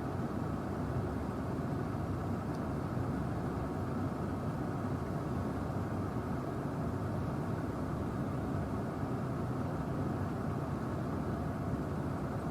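A steady low rumble with no distinct events and no change in level.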